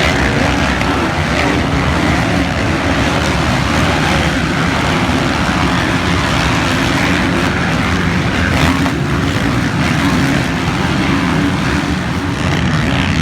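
Motocross dirt bike engines running, loud and steady.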